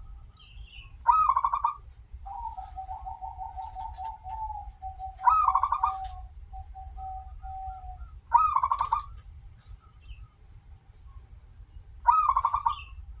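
Zebra dove (perkutut) cooing: a long rolling trill, then a few separate notes. Four loud, short call phrases come about every three to four seconds.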